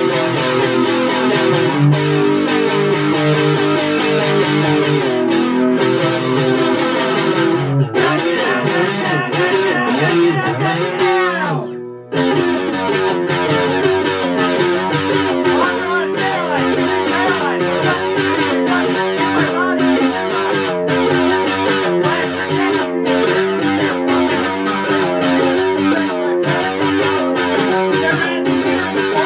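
Electric guitar playing a rhythmic riff through effects. It slides down in pitch and briefly drops away about twelve seconds in, then the riff picks back up.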